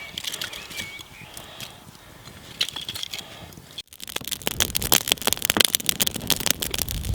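Small campfire of feather sticks and kindling crackling, with sharp pops and snaps. About four seconds in the crackling grows louder and denser.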